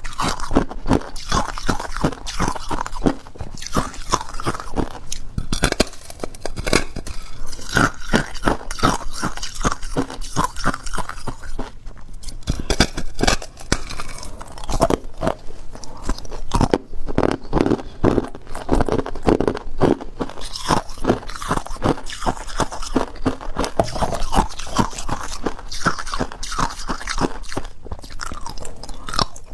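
Hard ice being bitten and chewed close to the microphone: a dense run of sharp, rapid crunches, with a brief lull about twelve seconds in.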